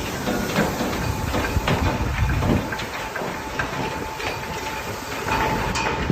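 A fishing boat's cradle being winched up the slipway rails: a steady rumble of the carriage rolling on the rails, with irregular clanks and knocks throughout. A faint steady whine joins near the end.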